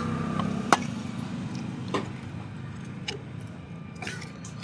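E-rickshaw wheel turning over a steady low hum, with a sharp click about once a second. Four clicks are heard, the first the loudest.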